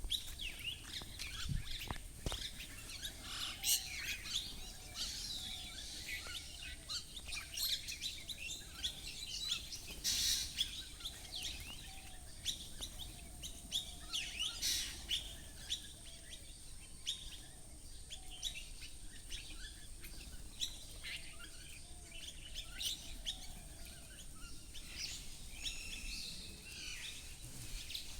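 A flock of small birds chirping and twittering, many short overlapping calls one after another, with some lower calls beneath them. A couple of low thumps come about two seconds in.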